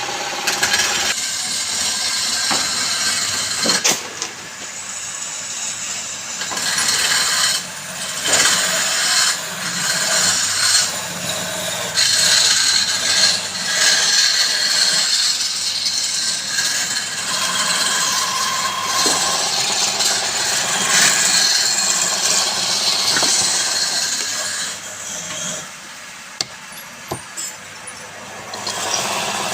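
Wood being worked on a lathe: a tool scraping and cutting the spinning piece in uneven strokes over a faint motor hum, easing off briefly a few seconds before the end.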